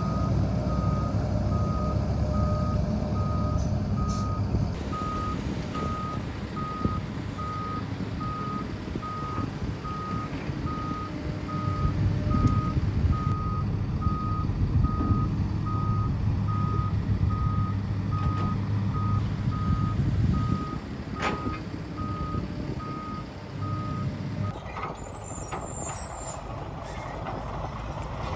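Reversing alarm on a heavy construction machine beeping at an even pace, about one beep a second, over its diesel engine running. The beeping stops about four seconds before the end, followed by a short high hiss.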